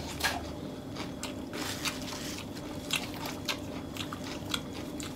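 Close-miked chewing of a mouthful of beef rolled in betel leaves (lá lốt), with many small irregular wet clicks and crunches, mixed with the crinkle of fresh lettuce leaves being pulled from a pile.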